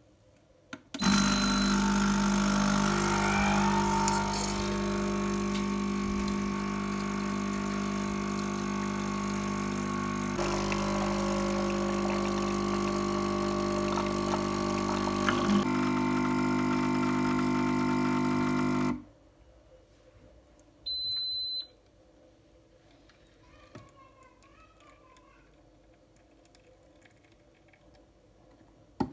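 A loud, steady machine hum that starts and stops abruptly and lasts about eighteen seconds, its pitch changing twice along the way, followed about two seconds later by one short high beep.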